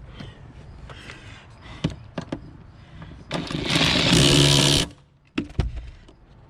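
A cordless power tool runs in one burst of about a second and a half, tightening a fastener, amid small clicks and knocks of parts being handled.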